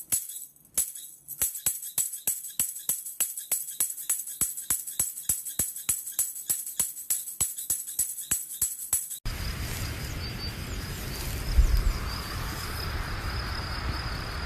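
A tambourine-like jingle beat, about four sharp strikes a second, in a music track. About nine seconds in it cuts off abruptly and gives way to a steady hiss of background noise with a thin high tone over it.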